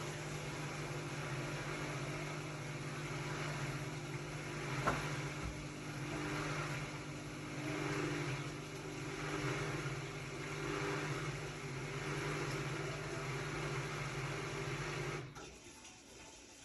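Hotpoint-Ariston RSG 825 J washing machine running: a steady low hum with slow, rhythmic swells of swishing and a single click about five seconds in. The hum cuts off suddenly about fifteen seconds in, leaving only faint sound.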